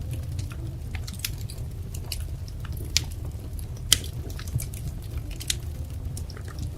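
Wood fire crackling: irregular sharp pops and snaps over a steady low rumble of burning, with the loudest pop about four seconds in.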